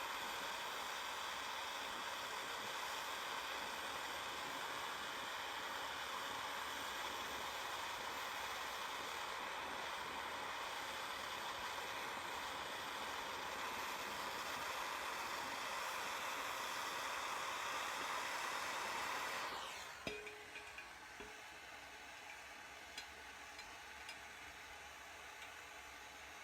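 Handheld gas torch flame hissing steadily while heating a wire-wheel nut to break its Loctite bond, shut off about twenty seconds in. A few faint ticks follow.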